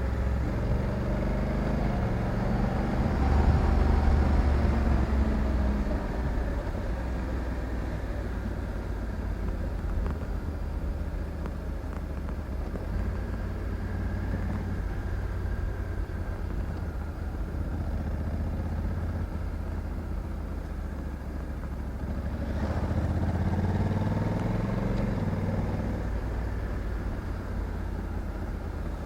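Honda Africa Twin 1100's parallel-twin engine under way, with road and wind noise. It pulls up in revs and gets louder about three seconds in and again near the end, and runs more steadily between.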